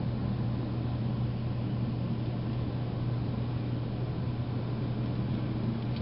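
Steady blizzard wind noise with a constant low rumble.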